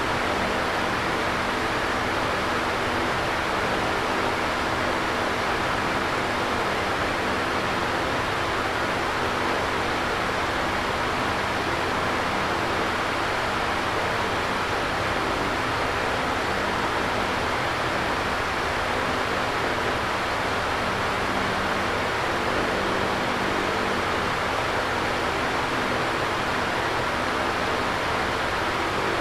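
Electric fan running steadily: a constant even whoosh of moving air with a faint low hum under it.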